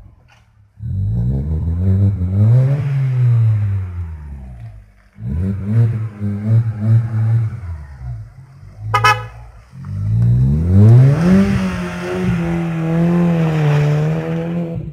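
VW Polo engine through an aftermarket performance exhaust, run up and down in three long rises and falls of pitch. There is a short sharp crack about nine seconds in.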